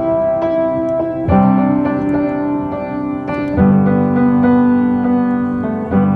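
Background music: a piano playing slow sustained chords, with fresh chords struck about a second in and again midway.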